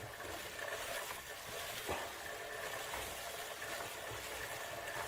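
Faint steady machine hum over a light hiss, with a single soft click about two seconds in.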